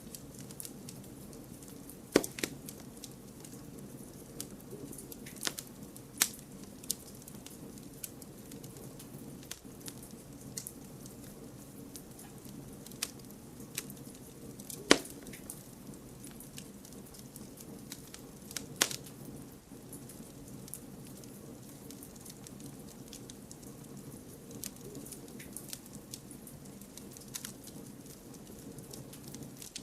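Wood campfire burning with a steady low rustle of flames and scattered sharp crackles and pops as the wood splits, the loudest pop about halfway through.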